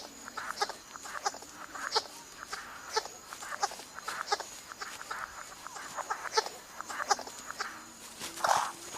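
Courting bird making short, irregular clicks and chirps, several a second at times, over a faint steady high insect whine.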